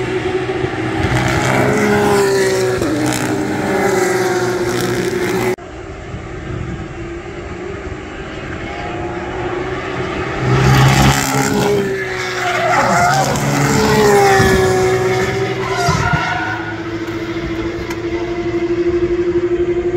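Porsche race car engines at racing speed, their pitch rising and falling with revving and gear changes as cars pass, several at once. The sound cuts abruptly about five and a half seconds in, and near the end one engine holds a steady note.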